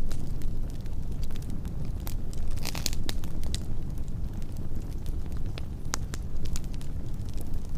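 Wood fire burning, with a steady low rush of flame and irregular sharp crackles and pops from the burning wood, thickest about three seconds in.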